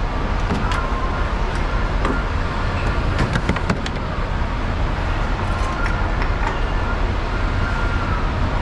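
Steady low rumble of a truck's diesel engine running, with a few light clicks about two to four seconds in.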